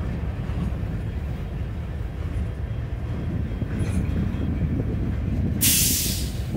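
Norfolk Southern freight train rolling past close by: a steady rumble of the gondola and boxcar wheels on the rails, with a short, loud hiss about five and a half seconds in.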